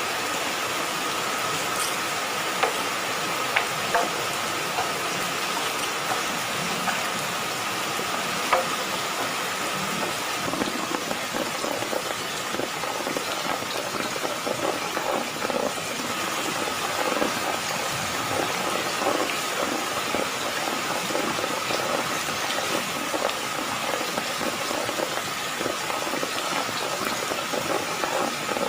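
Heavy rain pouring steadily, with occasional louder drops ticking.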